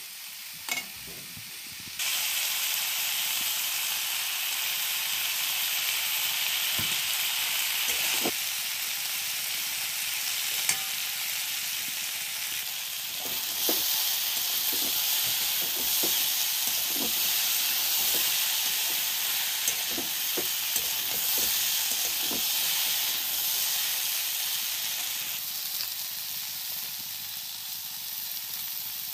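Cauliflower filling sizzling in hot oil in a metal wok, with a spatula clicking and scraping against the pan as it is stirred. The sizzle gets louder about two seconds in.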